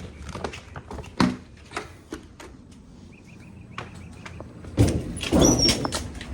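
Clicks and knocks of things being picked up and handled, with a louder rustling clatter about five seconds in.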